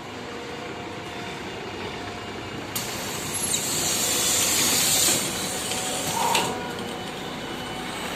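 MAZ-105 articulated bus running, with a sudden loud hiss of compressed air from its pneumatic system about three seconds in, lasting a couple of seconds, and a shorter puff of air about six seconds in.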